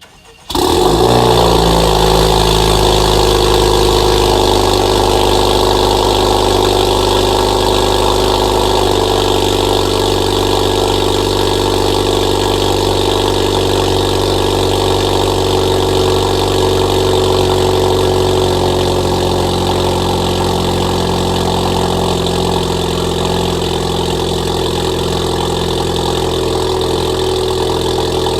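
2018 Honda Accord Sport's 2.0-litre turbocharged four-cylinder cold-starting, catching almost at once about half a second in and settling into a loud, steady fast idle. It breathes through a catless downpipe and Borla exhaust.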